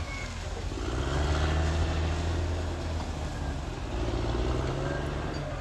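Caterpillar D6R XL bulldozer's diesel engine running under changing load, its pitch dipping, then rising and easing off again as it works.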